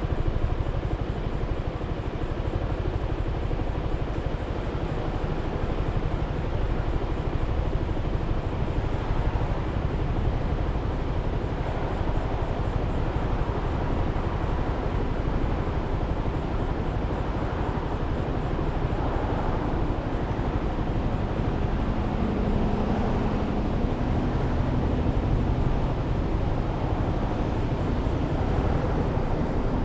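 Riding noise from a Suzuki Burgman 400 scooter on the move: a steady rush of wind on the microphone and road noise, with the single-cylinder engine running underneath. A faint hum rises a little about two thirds of the way in.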